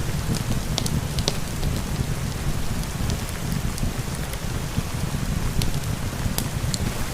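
Steady rain with a low, dense rush, mixed with the scattered sharp crackles and pops of a wood fire in a fireplace.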